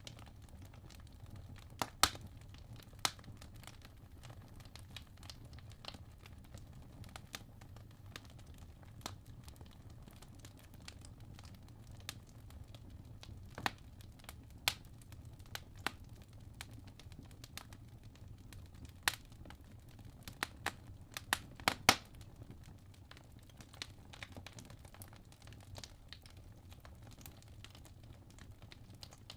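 Wood logs burning in a fireplace: a low steady rumble of flame with irregular sharp crackles and pops, a quick cluster of louder pops about two-thirds of the way in.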